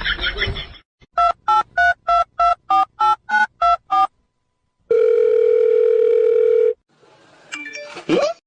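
Telephone keypad dialing: ten short two-note touch-tone beeps, about three a second, then one long steady tone of nearly two seconds.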